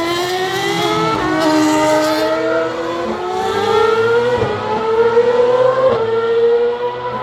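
Ferrari Formula 1 car's engine accelerating hard at high revs, its pitch climbing and then dropping sharply with three upshifts.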